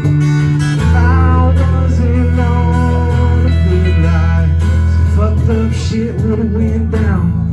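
Country band playing: acoustic guitar strumming over a steady bass, with a bending, wavering lead melody line on top and a chord change about a second in.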